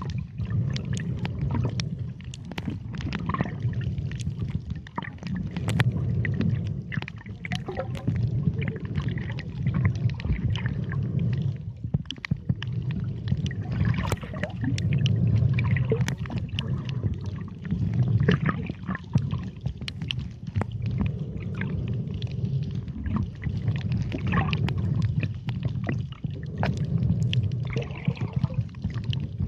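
Underwater ambience picked up by a camera below the surface: a low rumbling water noise that swells and fades every few seconds, with many scattered sharp clicks.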